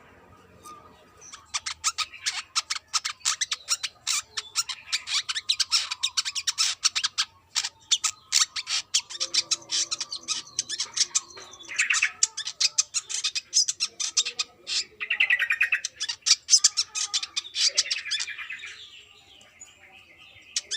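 Brown-throated sunbird singing: long runs of rapid, sharp, high chirps broken by a few short buzzy trills, starting a moment in and stopping near the end.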